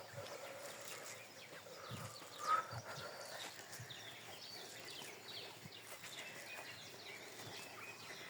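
Birds calling all around in many short, quickly falling chirps, with one brief louder call about two and a half seconds in. A few soft low thuds sound beneath them.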